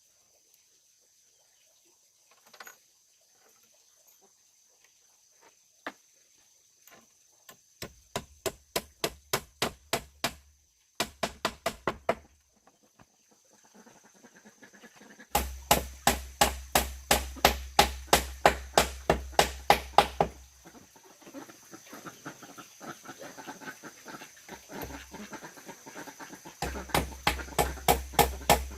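Rapid, even hammering on wood, about five blows a second, in runs of a few seconds with short pauses between them. The first stretch is quiet apart from a few faint clicks.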